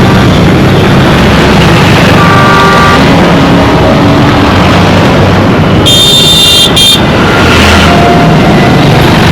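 Dense Indian road traffic: engines running under a steady din, with horns honking. There is a short horn about two seconds in, and a shriller horn about six seconds in that lasts about a second.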